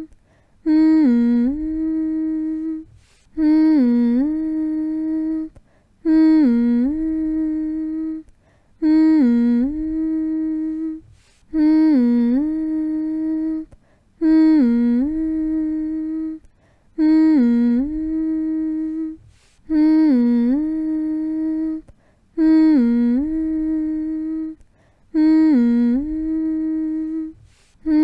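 A person humming the same long, low note over and over, about every two and a half seconds. Each hum starts with a short scoop up into the note, holds steady for about two seconds, then breaks off for a brief pause: a soothing lullaby-style hum for putting a baby to sleep.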